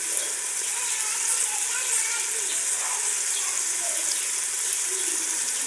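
Tomatoes, onions and ginger-garlic sizzling in hot oil in a cooking pot: a steady frying hiss with fine crackling.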